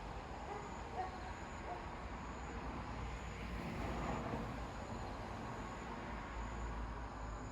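Outdoor night ambience: a steady low rumble and hiss, with faint short high chirps repeating about once a second.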